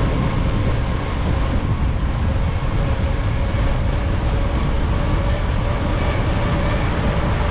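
Wind rushing over the microphone of a mountain bike ridden fast downhill: a loud, steady rumble with a faint steady whine underneath.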